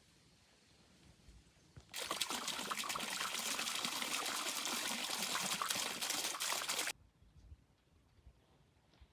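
Liquid pouring or trickling for about five seconds, starting and stopping abruptly.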